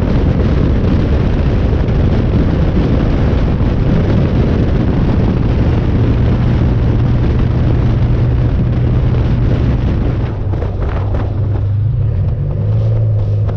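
DeLorean DMC-12's PRV V6 engine running through a sports exhaust while the car drives on the road, a steady low engine note mixed with wind buffeting the microphone. About ten seconds in the sound eases off, then the engine note comes back stronger near the end.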